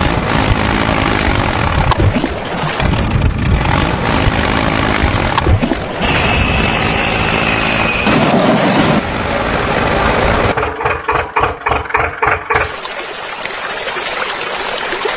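Vehicle engine sound effects cut together in short pieces: an engine running and revving, a steady high beep about six to eight seconds in, a rapid pulsing chug around eleven to twelve seconds, then a steady hiss near the end.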